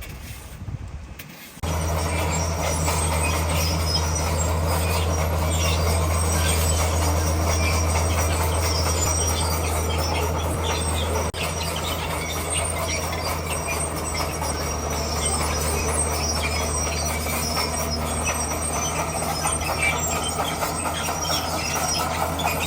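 Bulldozer's diesel engine running steadily with the clank and rattle of its steel tracks. It starts suddenly about a second and a half in.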